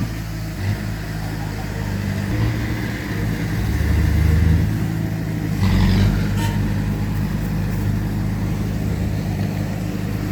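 Heavy diesel engines of earthmoving machinery working under load, the engine note rising and falling and swelling about four seconds in. A brief noisy clatter comes about six seconds in.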